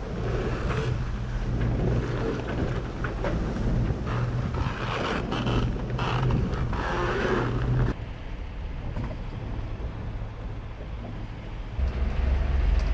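Wind and water noise aboard a sailboat under way, over a steady low hum. The sound drops abruptly about eight seconds in, and a louder low rumble starts near the end.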